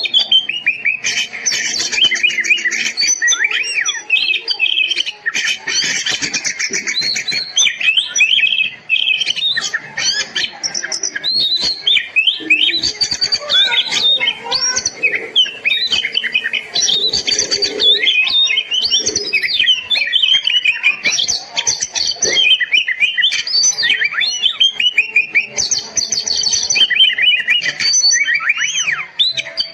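Oriental magpie-robin (kacer) in full, non-stop song: a rapid, varied stream of rising and falling whistles and chattering trills.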